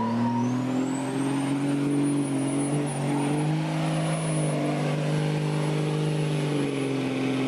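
Turbocharged car engine pulling hard under load. A high turbo whine climbs steeply in the first second and then holds, while the engine note rises and eases over several seconds.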